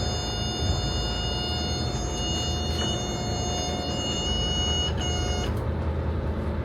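A steady, high-pitched electronic alarm tone sounds over the low, steady running of a boat engine and cuts off about five and a half seconds in. It is the kind of alarm a marine engine panel gives when an engine stops or fails while the ignition is on.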